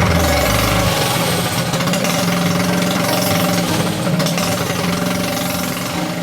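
Small single-cylinder 98cc mini bike engine running steadily through an open trumpet header pipe.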